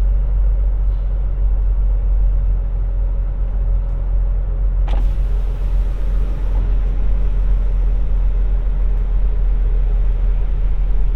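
Peterbilt semi truck's diesel engine running at low speed, a steady low rumble. There is a sharp click about five seconds in, and a short hiss right after it.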